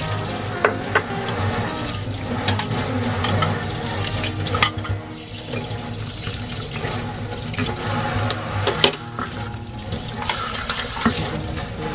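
Tap water running from a spray faucet into a stainless steel sink as dishes are rinsed by hand, with a few sharp clinks of crockery knocking against the sink and each other.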